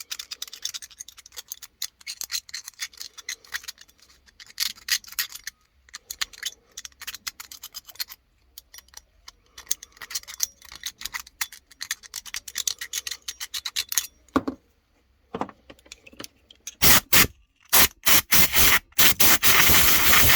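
Hand scraping and scratching on a part of a Honda Izy lawnmower during carburettor cleaning, a dense run of fine rasping clicks. Near the end, several loud bursts of hissing noise.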